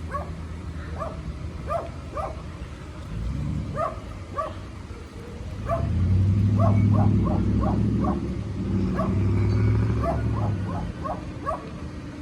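A small dog yapping in short, high yips, in quick runs of several at a time. Under it a vehicle engine hums low, rising to its loudest from about six to eleven seconds in, then dropping away.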